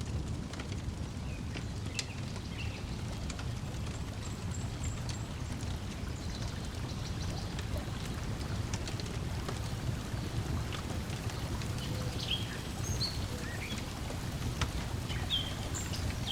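Layered outdoor ambience: a steady low wash of lake water lapping, a wood fire crackling in sparse snaps, and birds chirping briefly now and then.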